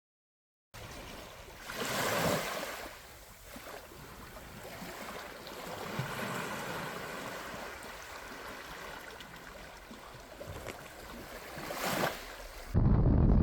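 Surf washing onto a beach: a steady hiss of waves with two louder swells, about two seconds in and near the end. Just before the end it cuts to a loud low rumble of wind on the microphone.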